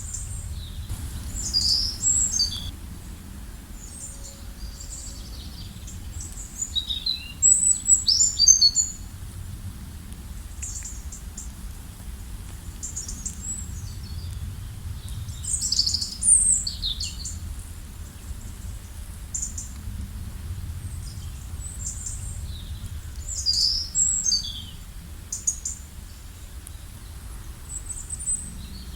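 Songbirds chirping in short, high bursts, in clusters a few seconds apart, over a steady low rumble.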